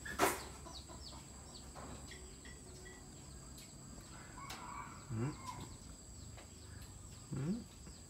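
A bird gives two short, low clucking calls about two seconds apart. A sharp click comes just after the start.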